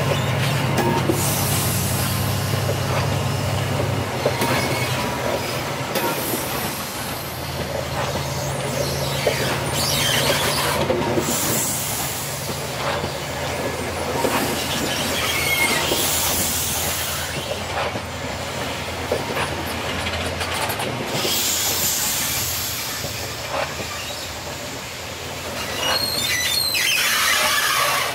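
Chiltern Railways locomotive-hauled coaches rolling slowly past, with a steady low hum, wheels squealing in short bursts and knocks from the running gear. It gets louder near the end as the grey end vehicle comes alongside.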